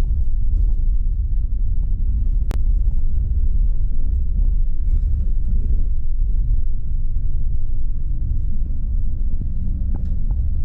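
Low, steady rumble of a bus in motion, heard from inside among the passengers, with one sharp click about two and a half seconds in.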